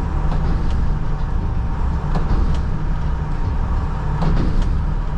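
Front-load garbage truck's engine running steadily with a faint constant whine over its low rumble. A few short knocks and clunks come from the truck body during the packing of the hopper.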